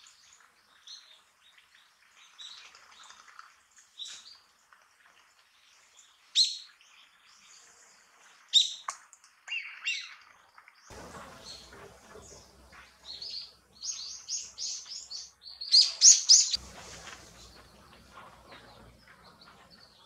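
Wild birds calling: a run of short, high-pitched chirps and call notes, loudest about sixteen seconds in, over a low rumble of background noise that comes in about eleven seconds in.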